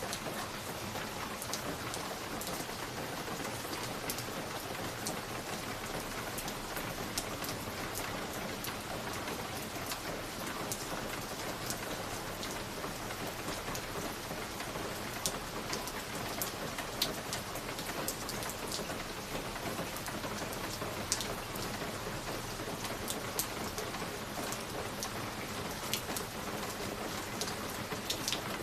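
Wood fire in a fireplace crackling: a steady hiss with many scattered sharp pops and snaps at irregular intervals.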